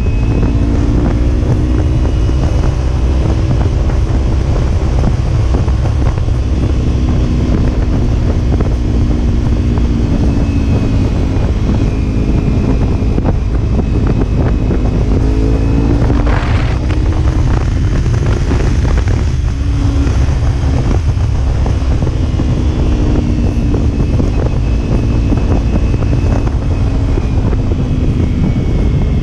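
Kawasaki Ninja 300's parallel-twin engine running at road speed, its note slowly rising and falling with the throttle, under a heavy rush of wind on the microphone. About halfway through, the note breaks briefly and then settles again.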